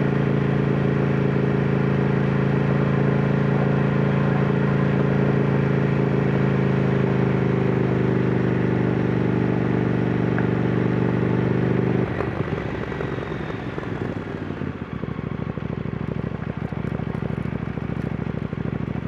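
KTM Duke 990 motorcycle engine running at a steady pace, its pitch easing down slightly, until about twelve seconds in the steady tone drops away suddenly and gives way to a quieter, uneven, rattly idle.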